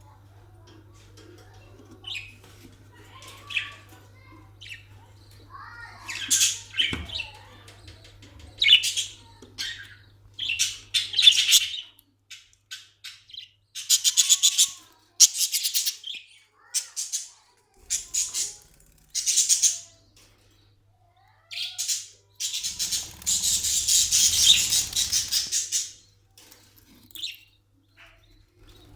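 Caged budgerigars chirping and chattering in short bursts, with a longer stretch of dense chatter near the end. A steady low electrical hum runs under the first part.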